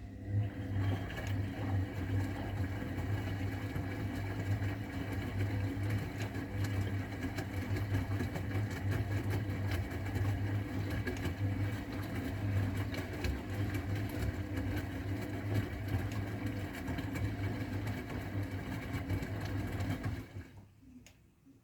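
Old AEG Öko_Lavamat 693 washing machine running with a steady mechanical hum that starts suddenly, holds for about twenty seconds and then stops near the end, one motor-driven phase of a 60°C wash program.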